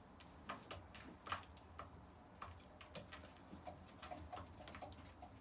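Pigeons pecking at feed in a dish: faint, irregular quick taps, several a second.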